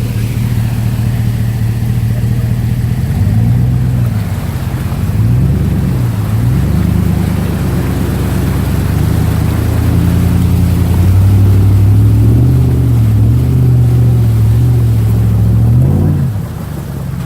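Truck engine revving up and down over and over, its pitch rising and falling in waves, then settling back to a steady lower note near the end.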